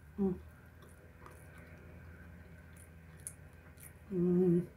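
A woman chewing a mouthful of sushi with her mouth closed, with faint wet chewing clicks. She gives a short closed-mouth hum about a quarter second in and a longer, steady hum of about half a second near the end.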